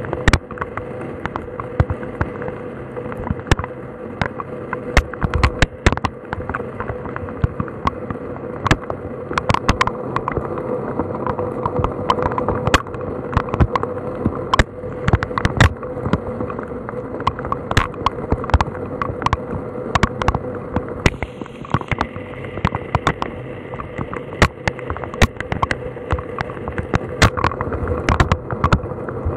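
Rain falling on and around a camera: irregular sharp taps of raindrops striking the housing and lens at close range, several a second, over a steady patter of rain.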